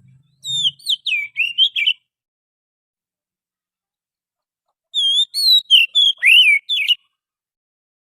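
Oriental magpie-robin singing: two short phrases of quick, varied whistled notes, one about half a second in and another about five seconds in, with a pause between.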